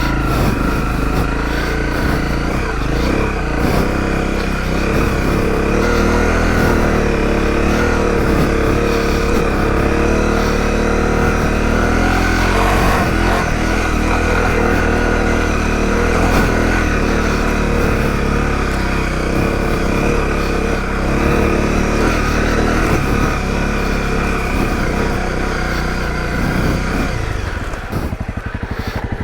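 Honda CRF250L's single-cylinder four-stroke engine running as the bike is ridden, the engine note fairly steady, then easing off near the end.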